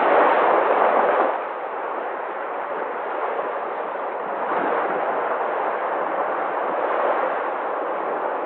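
Sea waves, a continuous rush of surf that swells loudest in the first second, eases off, then builds again in slow surges.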